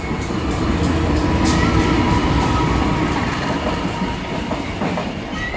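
Freight train of flat wagons, hauled by a CC 201 diesel-electric locomotive, rolling past close by: a steady heavy rumble with rapid clickety-clack of wheels over rail joints, about four or five clacks a second. The clacks are loudest in the first two seconds and then thin out.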